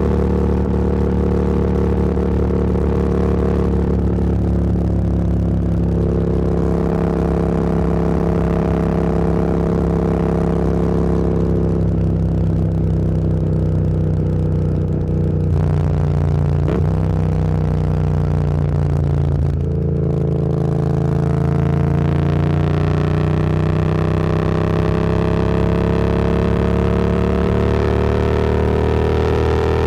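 Motorcycle engine running at cruising revs, with two quick gear changes about halfway through, where the pitch breaks and steps. The revs then climb steadily under acceleration.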